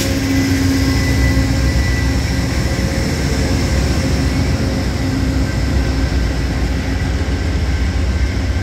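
Amtrak Auto Train rolling past at close range: a loud, steady rumble of wheels on rail, with faint steady tones above it.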